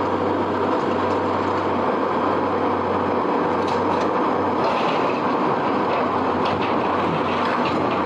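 A vehicle or heavy machine running steadily: a constant engine hum under a dense rumbling noise, with a few faint clicks.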